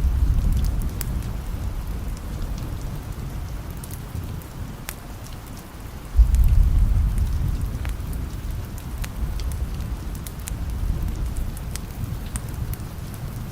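Steady rain with a low roll of thunder fading away at the start, and another that breaks in suddenly about six seconds in and slowly dies down. Scattered sharp ticks sound over the rain throughout.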